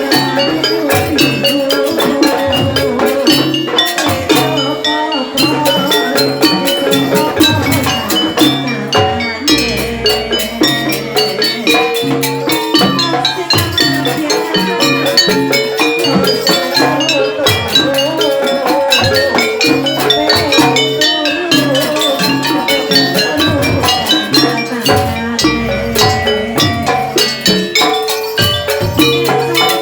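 Jaranan dance music from a live gamelan-style ensemble: struck, ringing metal pitched percussion over drums, playing a dense, continuous rhythm.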